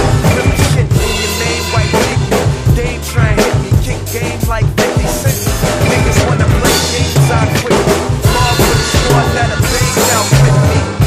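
Drum kit played in a busy hip-hop groove, with kick drum, snare and rimshots, over a recorded hip-hop track with a heavy bass line.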